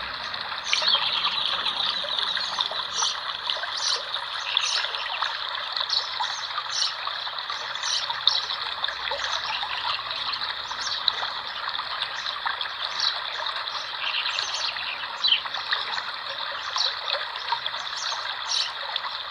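Spring water running and trickling steadily, with small birds chirping now and then over it.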